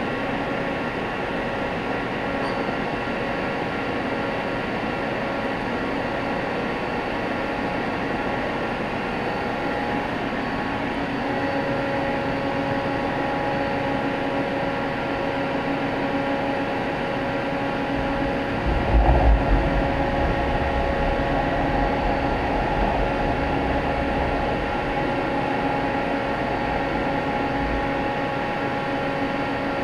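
Mighty Comet 1000PH vertical machining center running under power: a steady mechanical hum with several steady whining tones. Another tone joins about a third of the way in, and a low rumble comes in about two-thirds through, with a brief louder peak as it starts.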